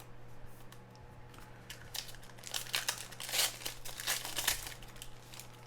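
Crinkling and rustling of trading card packaging being handled, in irregular bouts from about two seconds in and loudest a little past the middle, over a steady low hum.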